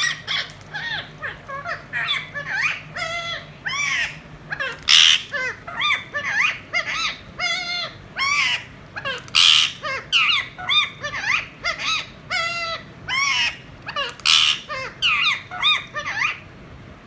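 Parrot calling over and over in short squawks and chattering calls that bend up and down in pitch, about two a second.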